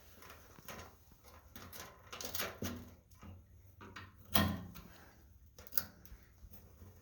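Scattered clicks and knocks from tools and parts being handled during hands-on work on a truck, the loudest knock about four and a half seconds in.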